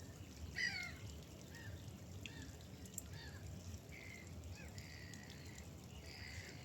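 Gulls calling: a series of short harsh calls that drop in pitch, the loudest about half a second in, with more calls scattered through, over a low steady rumble of outdoor background noise.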